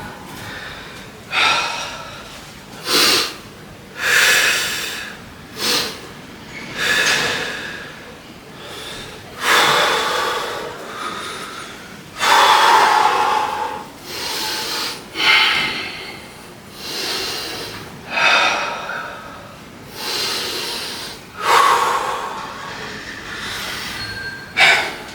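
A person breathing hard from workout exertion: forceful, noisy breaths roughly every one to two seconds, some longer and louder than others.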